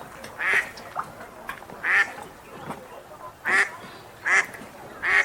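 Wild ducks quacking: about five loud quacks roughly a second apart, with softer quacks in between.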